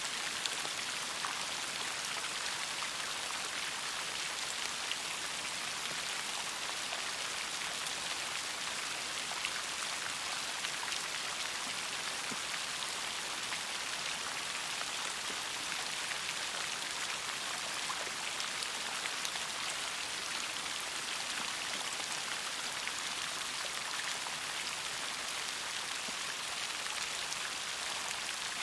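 Steady rain falling, a dense even hiss with many small scattered drop ticks.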